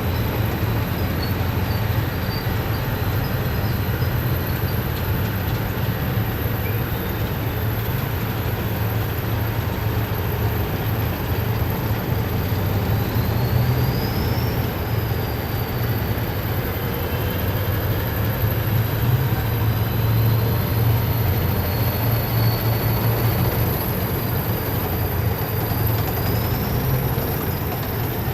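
A column of heavy military vehicles driving past, their engines making a steady deep drone over a wide rolling noise. A faint high whine rises about halfway through and again near the end.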